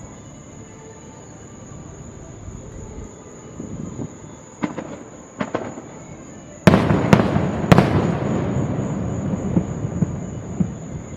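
Fireworks going off: two sharp pops about halfway through, then a sudden loud volley of bangs followed by a long rumbling, crackling echo.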